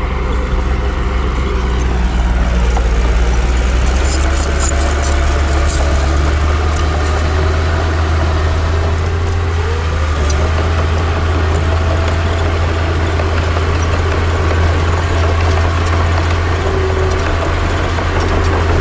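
Heavy diesel earthmoving machinery running: a deep, steady engine drone with a fainter tone that rises about halfway through, and scattered light clicks and clanks.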